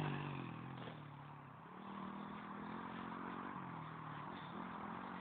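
110cc pit bike engine moving away, fading over the first second, then running faintly in the distance with its pitch rising and falling as it is ridden.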